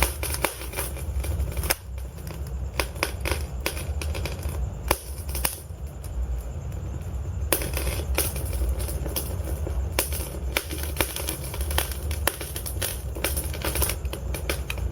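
Wood fire crackling: many irregular sharp pops and snaps over a steady low rumble of the flames. The higher crackles thin out for a few seconds, then come back densely.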